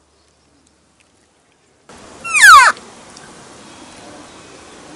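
Cow elk call blown by a hunter: one short, loud, nasal mew that falls in pitch, about two seconds in. Before it there is near silence, and after it a steady faint hiss of background.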